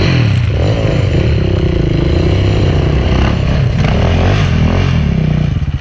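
Enduro dirt bike engine under hard throttle, its revs rising and falling for about five seconds before dropping away near the end.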